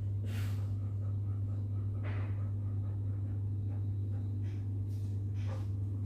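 A few short, breathy bursts from a golden retriever, a dog said to have a cough, over a steady low electrical hum. The two clearest come just after the start and about two seconds in, with fainter ones near the end.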